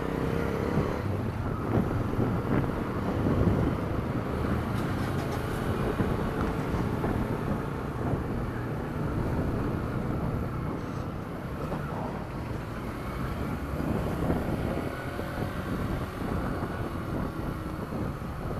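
Yamaha XTZ 125 single-cylinder motorcycle engine running steadily while riding, with wind noise on the microphone.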